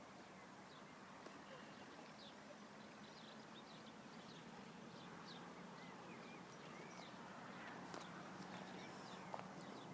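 Faint birdsong: many short, high chirps from small birds, over a steady low hum, with a few sharp clicks near the end.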